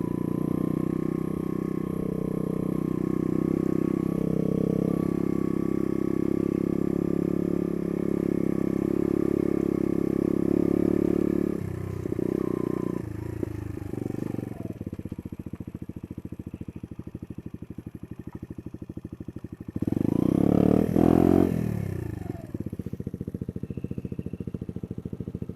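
Small single-cylinder trail bike engine running steadily at a constant throttle while under way. About twelve seconds in it drops back to an even, putting idle, with a brief loud rev about twenty seconds in before settling back to idle.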